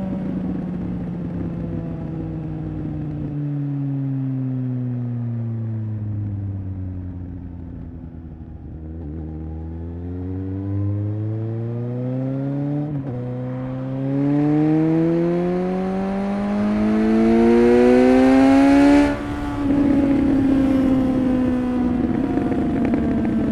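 Suzuki GSX-S750's inline-four engine and exhaust under way. The revs sink steadily for the first third as the bike slows, then climb again through an upshift. It pulls hardest and loudest until about three-quarters of the way in, where the pitch drops abruptly with another shift and settles to a steady cruise.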